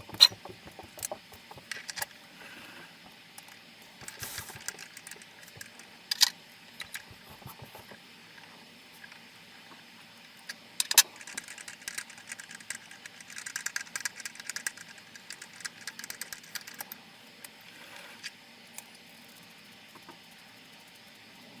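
Light metallic clicks, small knocks and rattles of hand-tapping work on an aluminum plate, with a stretch of faint scratchy noise in the middle. Two sharp knocks stand out, one near the start and one about halfway.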